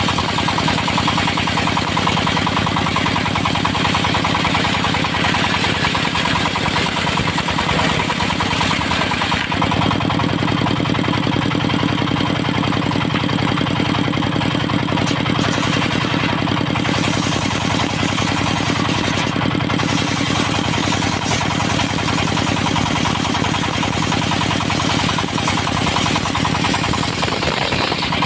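Dongfeng diesel engine running steadily under load, driving a portable circular sawmill whose blade is hissing through a teak log; the engine note shifts about ten seconds in.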